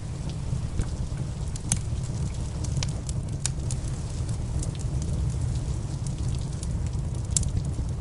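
Wood fire crackling, with sharp pops scattered irregularly over a steady low rumble, the loudest pops about two seconds in and near the end. Rain falls steadily underneath as a soft hiss.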